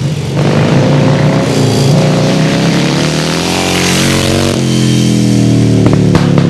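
Indian Scout motorcycle engine accelerating hard, its pitch climbing steadily, then dropping sharply about four and a half seconds in as it shifts gear and pulls again, with music underneath.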